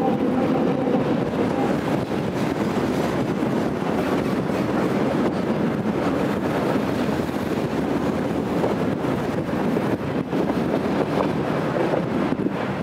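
Freight train of tank wagons rolling past close by: a steady rumble of wheels on rail. At the start the ChME3 diesel locomotive's engine hum is heard as it goes by, fading within the first second or two.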